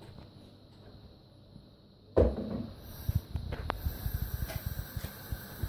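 A knock about two seconds in, then irregular crackling with a faint steady hiss: cooking oil going into a pan on the stove to heat.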